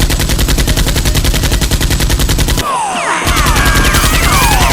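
Rapid automatic gunfire sound effect, a fast even stream of shots that breaks off briefly a little past halfway and then resumes, with short falling tones over the second burst.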